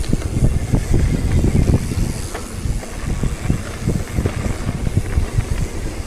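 Wind buffeting the microphone of a moving rider, a loud irregular low rumble with faint road hiss above it.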